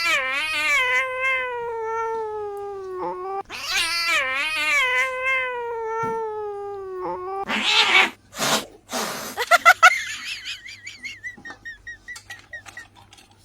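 Cat yowling: two long, drawn-out wavering yowls, then a few short harsh bursts and a fast warbling call that fades away near the end.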